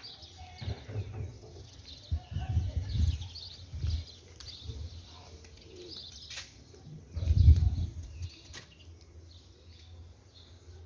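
Small birds chirping throughout, with several low, muffled thumps or rumbles. The loudest comes about seven and a half seconds in, and a few sharp clicks fall between them.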